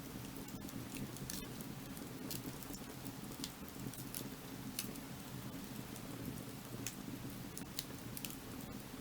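Firewood burning, with frequent irregular sharp crackles and pops over a steady low noise.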